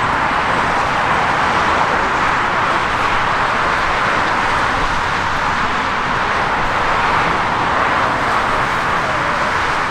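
Jet airliner engines heard as a steady, loud rushing noise that swells slightly and holds level.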